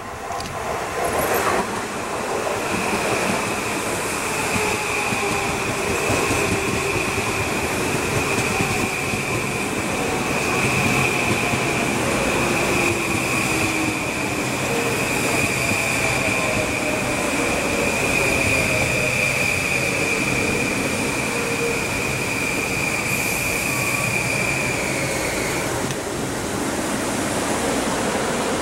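A Metro-North M8 electric multiple-unit train pulls into the station along the platform: the cars rumble past, and a whine falls in pitch as the train slows. A steady high-pitched squeal from the wheels runs through most of it and cuts off a few seconds before the end.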